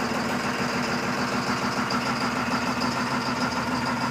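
Caterpillar C7 inline-six diesel in a school bus idling steadily, still cold after a cold start at 34° without the block heater plugged in.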